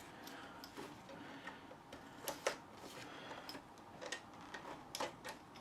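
A handful of small, irregular clicks and taps from a telescopic suitcase handle's release button and push rod being pressed and worked by hand, the mechanism meant to free the jammed handle.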